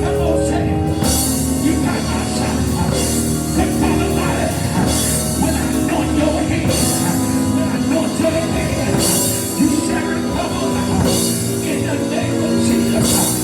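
Loud church praise music: a band with sustained keyboard or organ chords, drums and cymbals playing a driving beat, with congregation shouting and singing mixed in.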